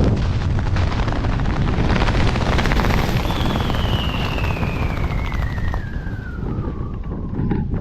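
Steady rush of wind over the microphone while flying under a parachute canopy. A thin whistling tone comes in about three seconds in and falls steadily in pitch for about four seconds before cutting off.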